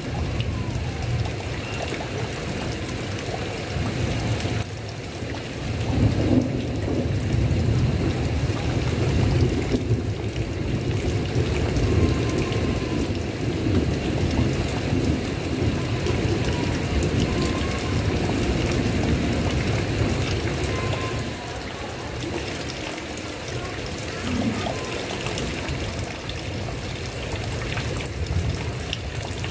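Steady heavy rain with a low rumble of thunder that swells about five seconds in and eases off after about twenty seconds.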